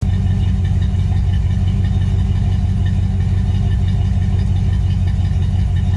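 1964 Pontiac GTO's 389 V8 idling steadily through its exhaust, a low, even rumble with no revving.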